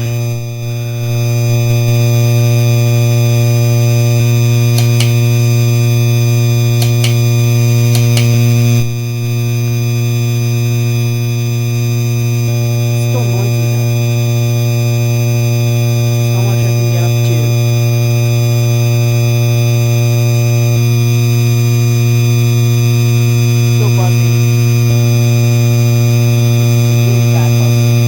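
Hampton Bay Landmark III Plus ceiling fan running, its motor giving a loud, steady electrical buzz; this fan is called the noisiest Landmark. A few faint clicks sound briefly a third of the way in.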